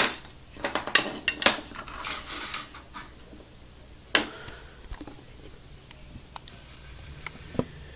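Small objects handled on a table: a die-cast metal model airliner and a ruler being moved and set against each other. Scattered light clicks and taps, busiest in the first two seconds, with one louder tap about four seconds in.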